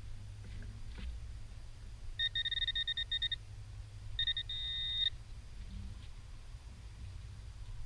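Metal-detecting pinpointer beeping on a target in the dug hole. A quick run of rapid beeps comes about two seconds in, then a short, nearly steady tone a second later.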